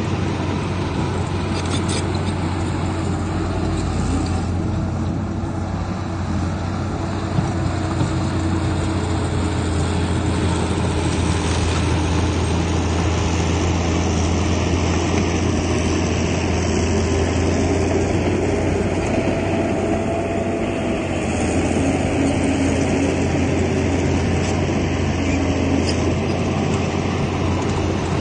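Diesel engines of heavy earthmoving machinery running steadily, with a constant low hum and a faint whine that shifts in pitch; a single sharp click about seven seconds in.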